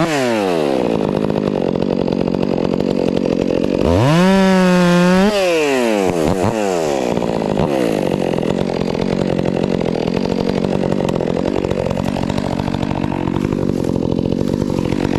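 Stihl MS 400 C two-stroke chainsaw: it drops back from revving, is revved up high for about a second and a half about four seconds in, then runs steadily at a lower, rougher pitch through most of the rest, as under load cutting firewood rounds.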